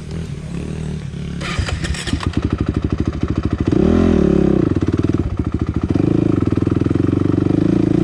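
Dirt bike engine running at low speed on a rocky trail, with a patter of clicks about a second and a half in. Near the middle it revs up and falls back, then holds a steadier, louder pull.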